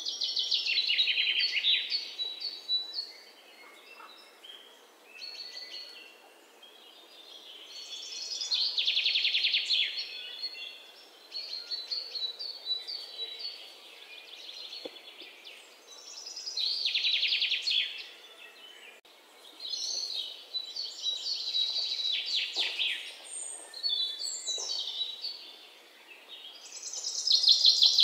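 Birds singing: bursts of rapid, high trills repeating every few seconds, with quieter chirps between them.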